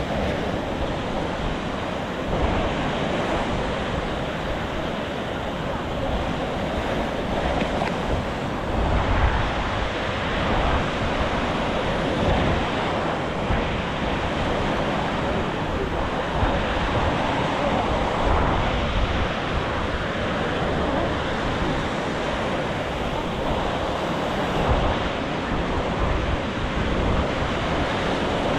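Sea surf washing onto a beach in a steady rush of noise, with wind buffeting the microphone in low rumbling gusts every few seconds.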